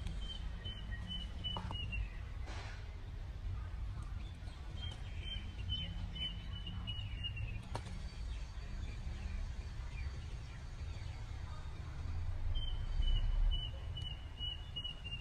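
A small bird singing three phrases of quick, evenly repeated high notes, each phrase a couple of seconds long and dipping slightly in pitch at its end, over a steady low outdoor rumble.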